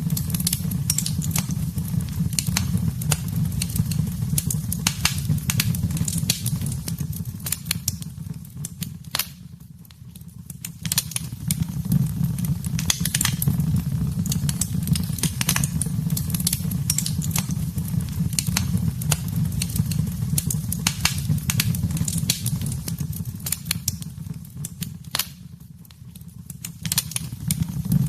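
Wood fire in a fireplace crackling, with frequent sharp irregular pops over a steady low rumble of the flames. The pops thin out and the fire quietens briefly twice, about ten seconds in and again near the end.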